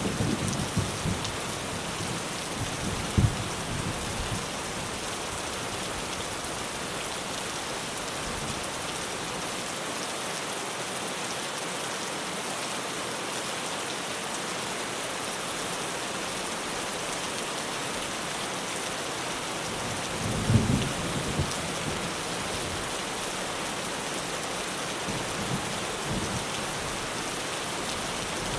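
Heavy rain drumming steadily on a tin roof. Low thunder rumbles break in during the first few seconds, with a sharp thump about three seconds in, and again about two-thirds of the way through.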